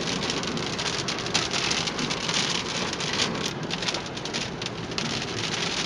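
Steady rain falling from a tornadic thunderstorm, with many separate drop hits on a surface.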